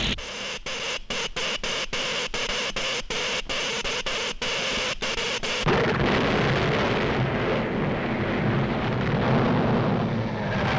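Cartoon sound effects of the villain's earthquake machine at work. A hissing noise is broken by brief gaps about three times a second, then about six seconds in a heavier rumbling noise takes over, the sound of the artificial earthquake.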